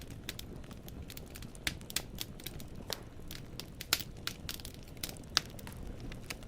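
Wood fire burning in a fireplace: firewood crackling with irregular sharp pops over a low steady rumble of flame, a couple of louder snaps about four and five and a half seconds in.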